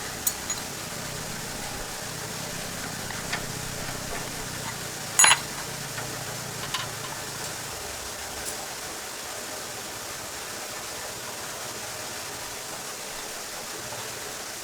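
Scattered metallic clinks of tools and tractor parts being handled during repair work, the loudest a single ringing clang about five seconds in, over a steady hiss.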